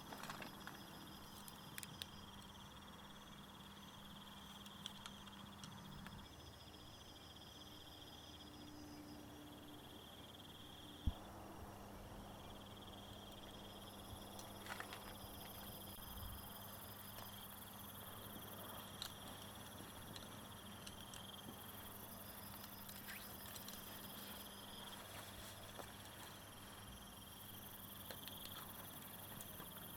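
Crickets or similar insects chirping steadily, with a faster pulsed trill that starts and stops every few seconds. A single sharp click sounds about eleven seconds in.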